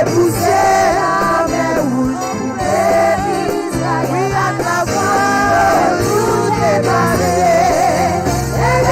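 Gospel worship music: voices singing a held, sliding melody over instrumental accompaniment with a steady bass line.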